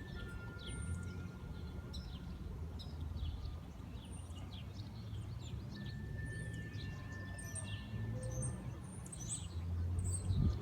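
Birds chirping and calling repeatedly over a low, steady rumble, the idle of a BMW E46 M3's straight-six through a straight-piped exhaust. The rumble swells a little near the end.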